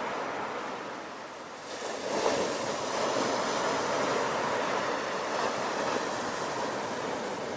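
Ocean waves: a wave breaks about two seconds in, and the surf's wash carries on steadily after it.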